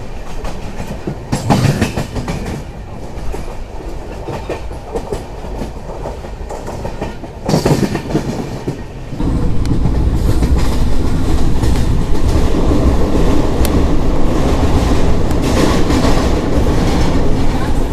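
Express passenger train running at speed, heard from on board: wheels clattering over rail joints over a steady rumble. A sharp bang comes about a second and a half in and another about eight seconds in, and about nine seconds in the rumble suddenly gets louder and stays so.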